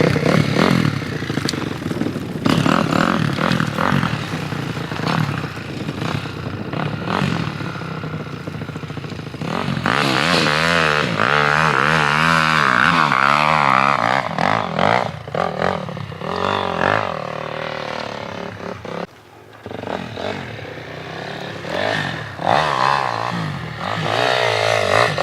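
Motorcycle engine running, its pitch wavering up and down as it is revved, with clattering and scraping in the first part.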